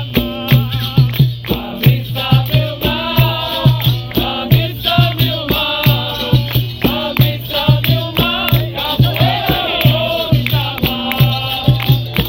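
Capoeira roda music: berimbau with its caxixi rattle and percussion keeping a steady, fast rhythm, with voices singing.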